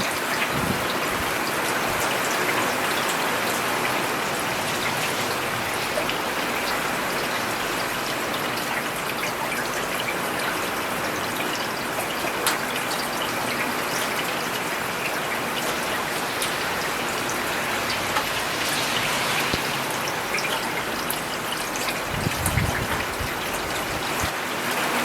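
Steady rain falling on a paved road, a dense even hiss with scattered individual drop ticks. A brief low rumble rises and fades near the end.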